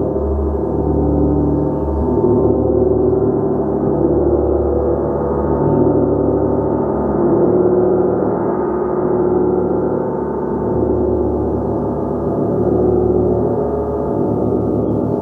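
A gong played continuously, its many sustained ringing tones blending into a dense wash that swells and eases every few seconds.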